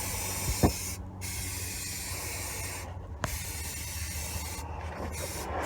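Aerosol can of high-heat spray paint hissing as it is sprayed, in several bursts with short pauses about one second and three seconds in and again near the end.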